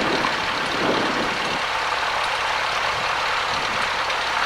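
Cessna 172's piston engine idling on the ground before taxi, a steady drone with an even hiss over it.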